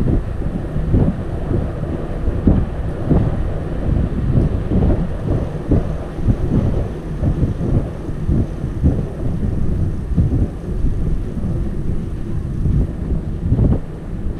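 Wind buffeting the microphone of a camera on a moving bicycle: a loud, irregular low rumble that flutters in gusts.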